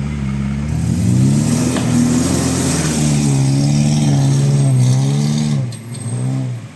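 An off-road car's engine revving hard, climbing about a second in and held at high revs for several seconds, then falling away, followed by a couple of short blips of throttle.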